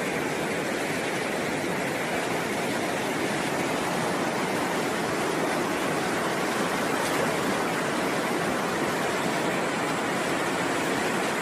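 A high, swollen river rushing steadily: an even, unbroken noise of flowing water.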